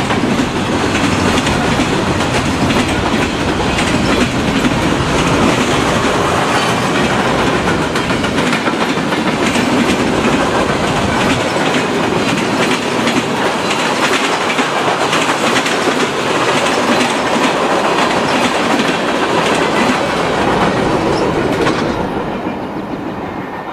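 A train of empty flatcars rolling past close by: steel wheels clattering on the rails in a loud, steady rush. About 22 seconds in, the last car goes by and the noise falls away quickly.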